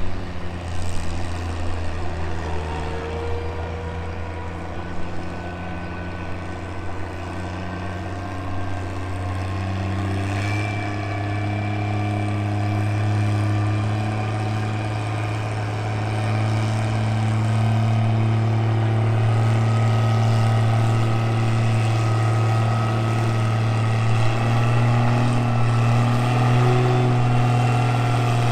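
A tractor engine running steadily under heavy load as it drags a weight sled in a pulling run. Its pitch steps up a little about ten seconds in, and it grows gradually louder.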